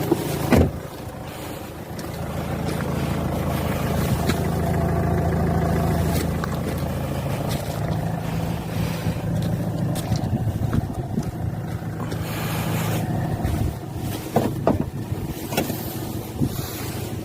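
Hyundai Santa Fe engine running at a steady idle, with a single knock about half a second in.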